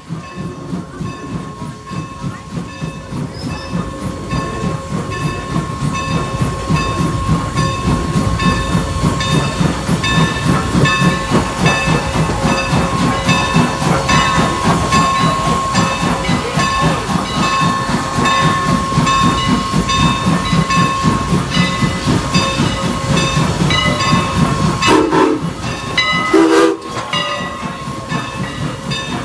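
Norfolk & Western steam locomotive working a train, with rhythmic exhaust and steam hiss that grow louder over the first ten seconds as it comes closer. Two short pitched sounds come near the end.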